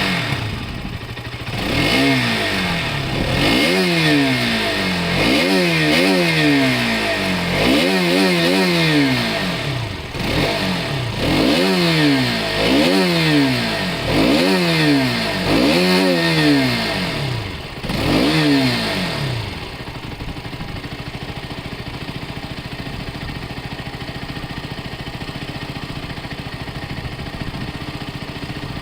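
Motorcycle engine revved again and again, each rev a quick rise and fall in pitch a second or two apart, then settling to a steady idle for the last nine seconds or so.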